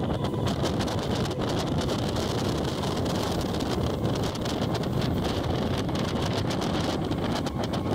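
Electric multiple-unit suburban train running along the line, heard from the front coach: a steady rumble of wheels on rail with rushing wind and many small clicks and rattles.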